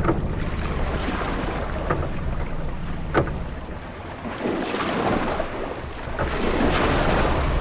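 Sailing-ship-at-sea ambience: a steady low rumble of wind and water, with waves washing up twice in the second half and a few short sharp sounds from the ship, the loudest about three seconds in.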